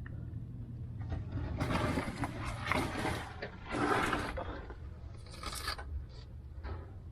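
Irregular scraping and rubbing in several short bursts, like material being dragged or pulled against a hard surface.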